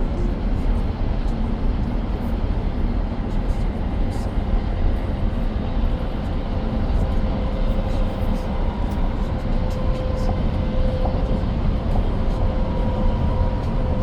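Road and tyre noise inside the cabin of a moving 2023 Tesla Model X: a steady rumble with a faint steady hum over it.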